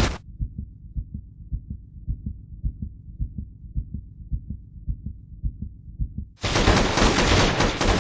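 Film soundtrack: guitar music cuts off, then a run of muffled low thuds, about two to three a second. About six and a half seconds in, loud, dense gunfire breaks in.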